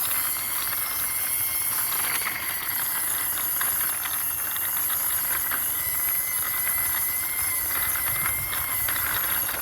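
Plastic wheels of a toy car rolling steadily as it is pushed by hand across a surface: a continuous hissing rolling noise with a faint high whine.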